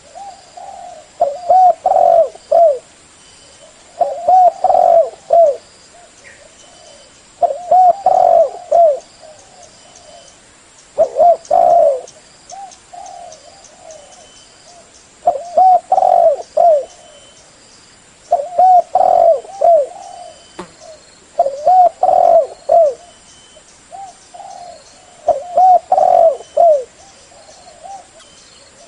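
Spotted dove cooing: a series of phrases of several low, rounded coo notes each, repeated about every three seconds with short gaps between.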